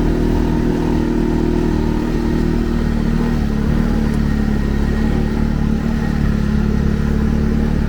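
Segway Snarler 570 ATV engine running steadily, its pitch easing down a little about three seconds in.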